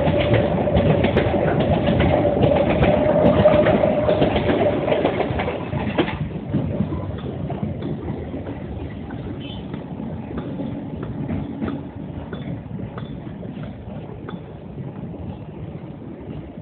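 A train running by: a loud, steady rumble and rattle with a held tone. About six seconds in it drops suddenly to a quieter sound with scattered clicks, which keeps fading away.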